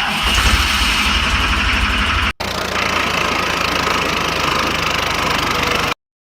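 Tractor engine running at idle with a steady low chugging beat. It is cut off for an instant about two and a half seconds in, then runs on and stops abruptly near the end.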